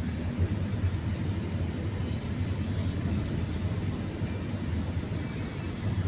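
Steady low rumble of a moving vehicle, its road and engine noise mixed with the hiss of strong sandstorm wind.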